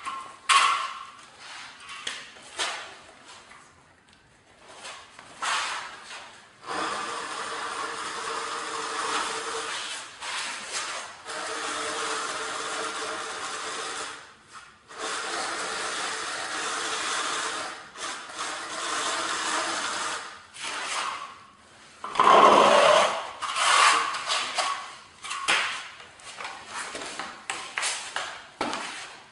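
A power tool runs steadily in two stretches of several seconds each, with scraping and knocking between them.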